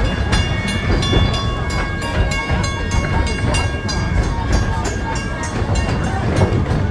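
Narrow-gauge steam train carriages rolling along the track, heard from an open-sided carriage: a steady loud rumble with frequent clicking of the wheels over the rail joints.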